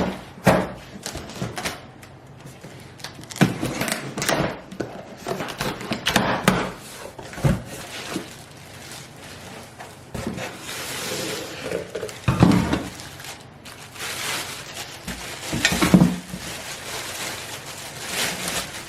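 Unboxing a swing-arm LED work light: cardboard and packaging rustling and tearing, with scattered knocks and clunks as the metal light and its parts are handled.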